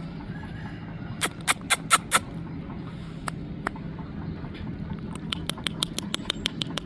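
Sharp clicking taps: five loud ones about a second in, two more a little later, then a quick run of about six a second near the end, over a steady low hum.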